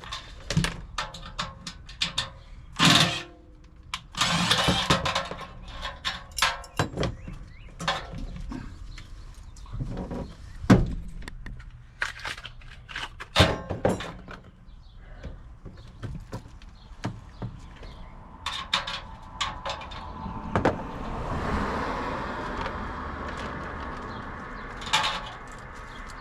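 Hands-on work on an HVAC blower motor and its wiring: irregular clicks, knocks and rattles of parts and tools being handled. A steadier whirring stretch comes about three-quarters of the way through.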